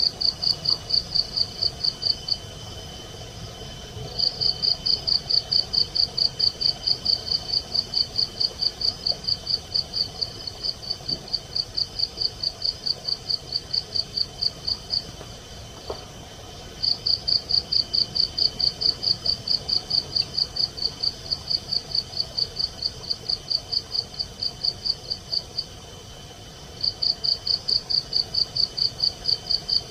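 Night insect chirping in long, even trains of several pulses a second, pausing for a second or two between trains, over a faint steady high-pitched drone.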